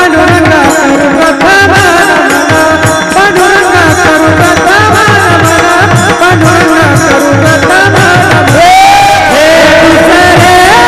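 A male kirtan singer singing a Marathi devotional melody with long ornamented notes, over a drum keeping a steady rhythm. About eight and a half seconds in he starts a new phrase, sliding up in pitch.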